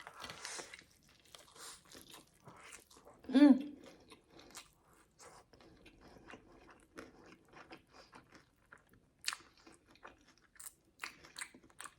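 Close-up chewing and crunching of a crispy fried chicken burger with hash brown: many small, crackly bites and chews. There is one short voiced hum about three and a half seconds in.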